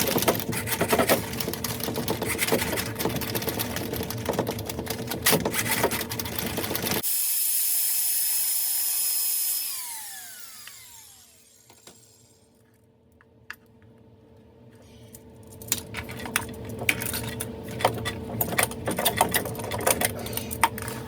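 A motor-driven tool running with a steady hum and a dense, rattling clatter, cutting off suddenly about seven seconds in. After a brief hiss, a few falling tones and a quieter stretch, the hum and clatter start again near the middle and run on.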